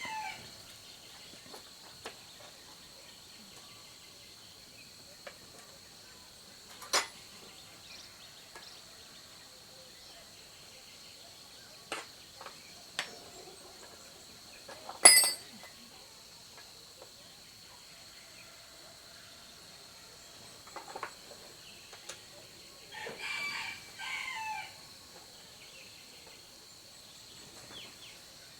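Steady high insect drone with scattered sharp clicks and taps from tools and chainsaw parts being handled; the loudest click comes about halfway through. A chicken clucks briefly near the end.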